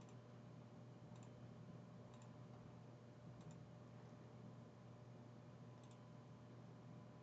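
Near silence: a faint, steady low hum with a few faint, irregular clicks about a second apart.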